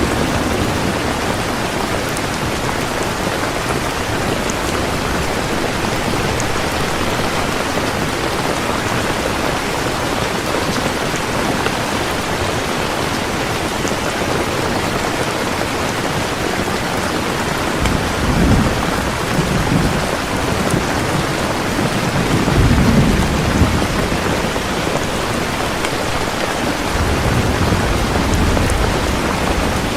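Heavy rain falling in a steady downpour, with low rumbles of thunder rolling in three times over the second half.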